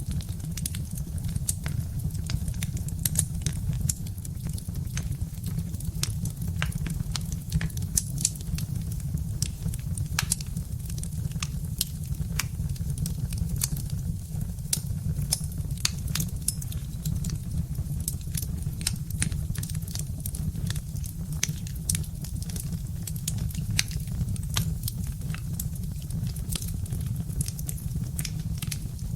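Birch-wood fire crackling, with frequent sharp irregular pops and snaps over a steady low rumble.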